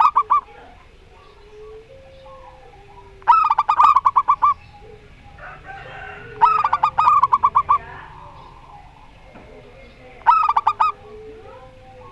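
Zebra doves (perkutut) cooing: loud bursts of rapid staccato coos come about every three seconds, with fainter, lower drawn-out notes between them.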